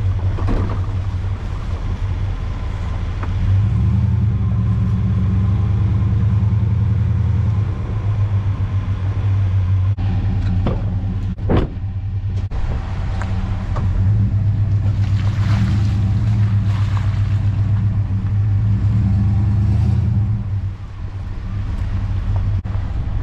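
Chevy Suburban driving on a rough dirt and gravel trail: a loud, low engine and road drone that swells and eases, with a few sharp knocks and rattles near the middle.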